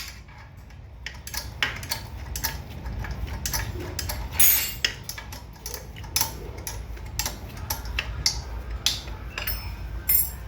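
Metal hand tools clicking and clinking irregularly against a Honda Fan 125 engine as bolts are taken out of its top end, a few strikes ringing briefly.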